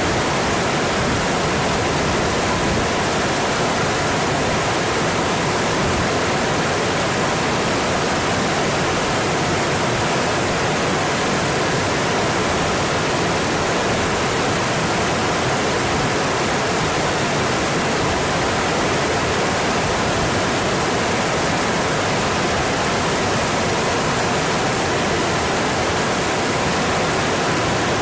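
Mountain stream rushing over its bed, a steady, even water noise with no breaks.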